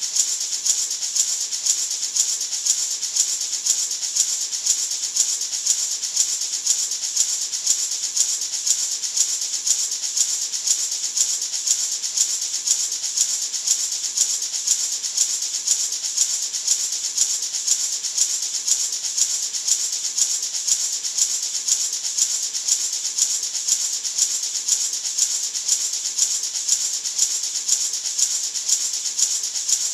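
Gourd maraca shaken in a steady, even rhythm, making a continuous bright, hissing rattle.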